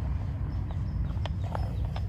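Several irregular sharp taps on a hard street surface, about four in two seconds, over a steady low rumble.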